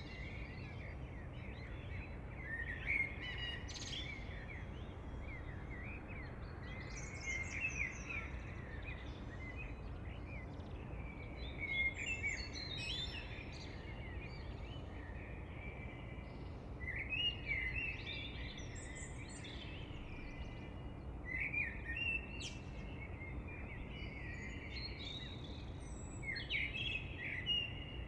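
Several birds singing and calling in overlapping chirps and trills, coming in clusters every few seconds, over a steady low background rumble.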